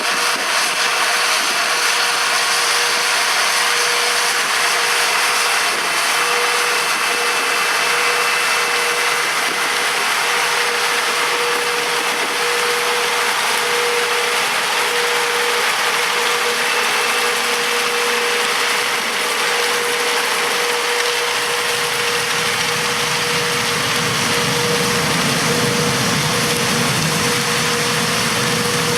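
Peanut harvesting machinery running steadily: a John Deere 8R-series tractor's diesel engine and a pulled peanut combine, with a constant whine over the mechanical noise. A deeper engine rumble builds up about two-thirds of the way through.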